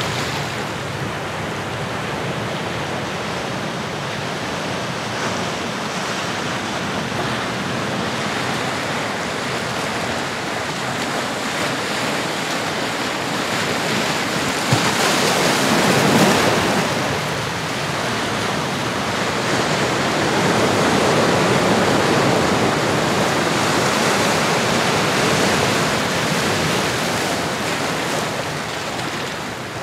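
Ocean surf: a steady rush of waves washing ashore, swelling to a breaking wave about halfway through and rising again in a longer surge later on.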